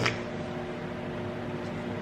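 Steady mechanical hum of an appliance or fan running in a small room, with a few steady low tones, and a short click right at the start.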